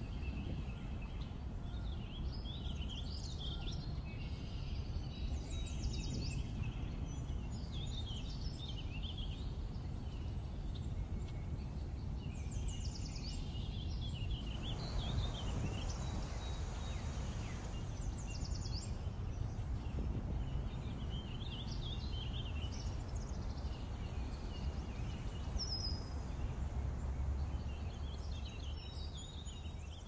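Birds chirping and singing in short scattered phrases, with quick falling notes now and then, over a steady low rumble. A broader wash of noise swells for a few seconds just past the middle.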